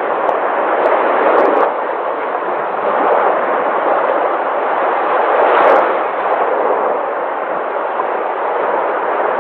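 Sea waves breaking and washing ashore: a continuous loud surf rush that swells and eases every few seconds.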